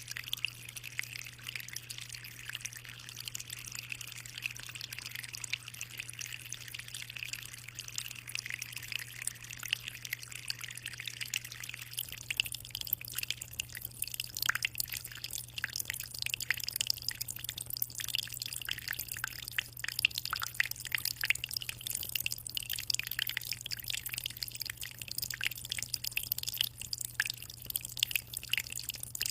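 Water trickling and dripping in an aquarium: a constant patter of small drips and splashes over a steady low hum. About twelve seconds in, the hiss thins and sharper, separate drips stand out.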